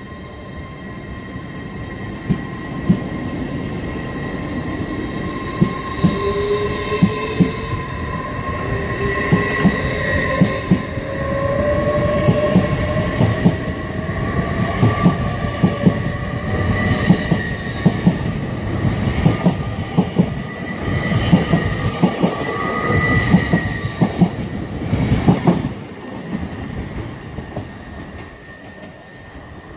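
LNER Hitachi Azuma electric multiple unit passing close by as it gathers speed, its traction motors whining and rising in pitch. Wheels click repeatedly over the rail joints, busiest toward the end, then the sound drops away about 26 seconds in.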